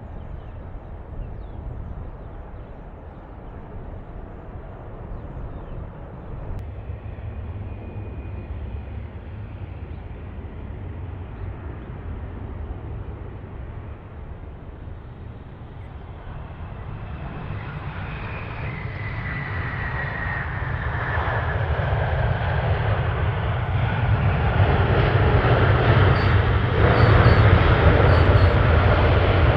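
Jet airliner engines growing steadily louder over the last dozen seconds as the aircraft nears, a low rumble with a whine that slides down in pitch.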